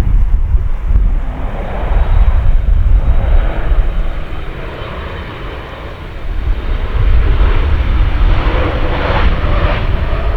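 Jet airliner's engines at takeoff power, a loud deep rumble with a rushing roar that eases off around the middle and swells again in the second half.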